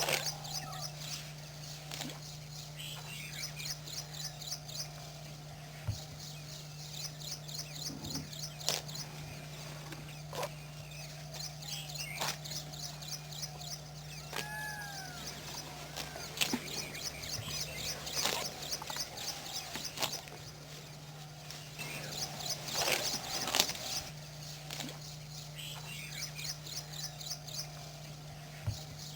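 Outdoor bird ambience: many birds chirping and calling, with fast repeated high trills and now and then a whistled note, over a steady low hum.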